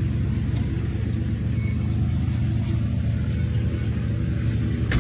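Chevrolet 350 V8 in a 1949 Chevrolet 3100 pickup, running steadily at idle with an even low pulse. A sharp click comes near the end.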